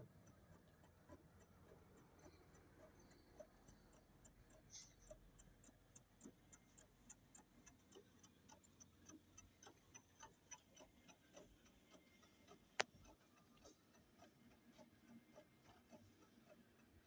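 Faint, regular mechanical ticking, about four ticks a second, with one sharp louder click about two-thirds of the way through.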